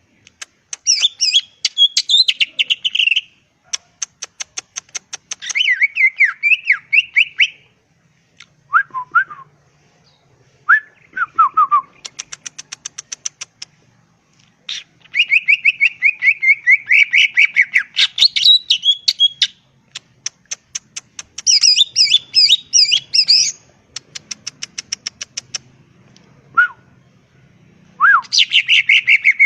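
Green leafbird (cucak ijo) in full song: a long run of varied phrases, rapid warbled trills alternating with fast strings of sharp repeated notes, and a few single slurred whistles in the pauses.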